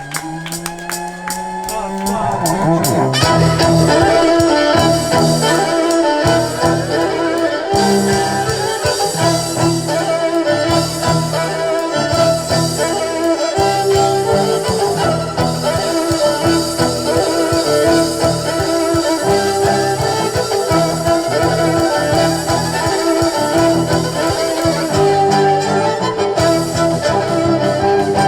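A live band playing an up-tempo tune with a steady, pulsing bass line that comes in fully about three seconds in, under sustained melody notes.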